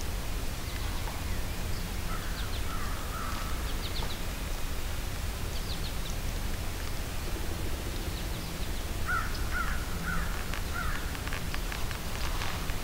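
Birds calling: a few harsh calls a couple of seconds in, then a run of four short calls about nine seconds in, with faint high chirps, over a steady low rumble.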